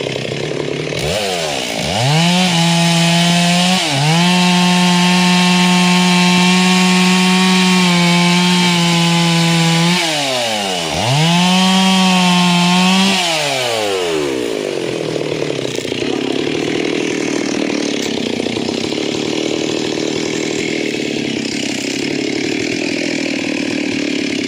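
Two-stroke chainsaw revved up to full throttle about a second in and held there at a steady high pitch, easing off briefly twice, then dropping back to a lower, steadier run about fourteen seconds in.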